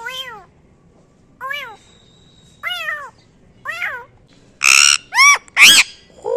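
Pet parrot calling: short calls that rise and fall in pitch, about one a second, then three loud, harsh squawks in quick succession near the end.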